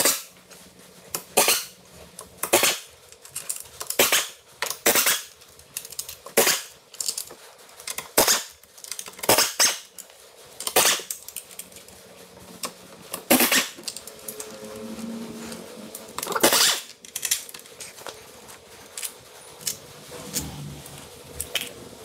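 Tools, screws and parts clinking and clacking during hand disassembly of a scooter's covers: irregular sharp metallic knocks, about one every second or two.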